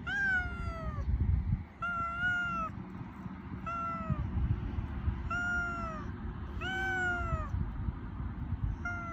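A stray cat meowing six times, about one call every second and a half, each meow falling in pitch at its end, over a steady low rumble.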